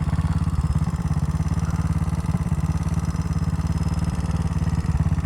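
Honda Dax's single-cylinder four-stroke engine idling with an even, steady putter. The bike has an exhaust leak: the exhaust is loose and backfiring hard.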